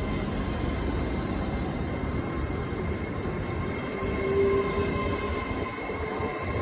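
A train running past or standing at a station platform: a steady rumble with a constant thin whine above it, and a short low hum about four seconds in.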